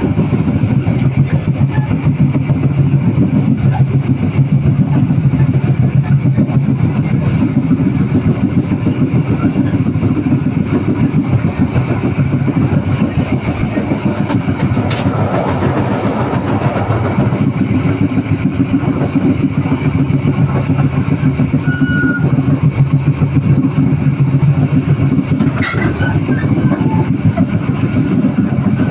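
Passenger train running along the track, heard from inside the coach: a steady low running noise with no break.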